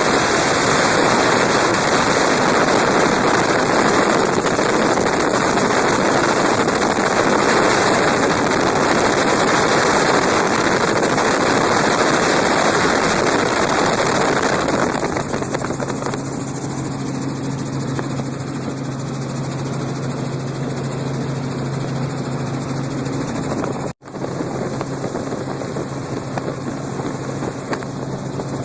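Helicopter in flight: a loud, steady rush of rotor and wind noise that drops, about halfway through, to a quieter steady drone with a low hum. There is a split-second break in the sound about three-quarters of the way through.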